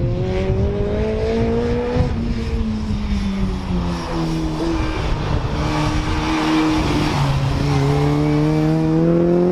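BriSCA F2 stock car's engine running hard on a track, its pitch climbing, falling off about two seconds in, holding lower, then climbing again near the end as the car accelerates.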